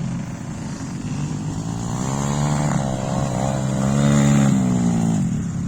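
Small single-cylinder pit bike engine (YCF 125) revving up, its pitch climbing and peaking about four seconds in, then dropping away near the end as the throttle comes off or the bike moves off.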